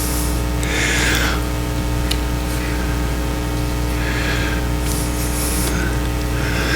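Steady electrical hum with several held tones from the sound system, broken by a few soft bursts of hiss about a second in and again around four to five seconds.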